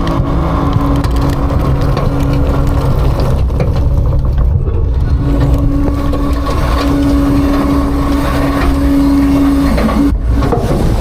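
Autocar-Heil Freedom front-load garbage truck's engine running steadily, with a held whine on top that drops out about three seconds in, comes back about two seconds later and dips briefly near the end.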